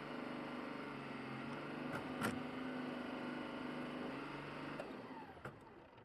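Tractor diesel engine running steadily, with a couple of sharp clicks about two seconds in. Near the end it winds down, its pitch falling as it is shut off.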